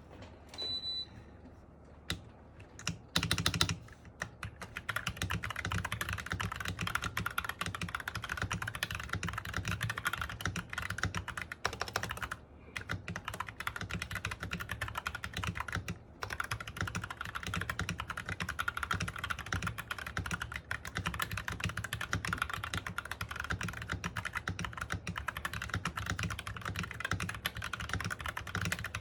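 Typing sound test on a foamed MK870 mechanical keyboard with Sky Panda switches and Cherry-profile dye-sub keycaps. A few separate key presses come first. After about four seconds the typing becomes steady and fast, with two brief pauses.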